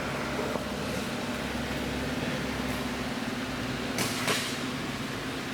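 Steady mechanical hum of background machinery, with two short sharp knocks about four seconds in.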